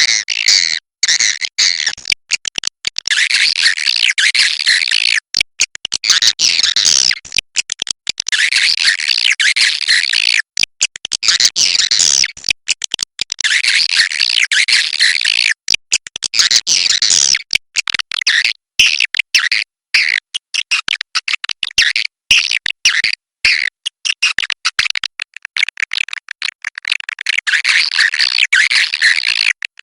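Swiftlets chattering: dense, high-pitched twittering calls in bursts of one to three seconds with short breaks between them.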